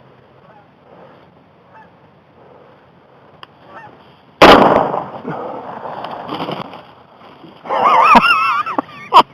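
Geese honking during a hunt, faint at first. A single very loud shotgun blast comes about halfway through and rings away, then loud wavering honks follow with another sharp shot inside them near the end.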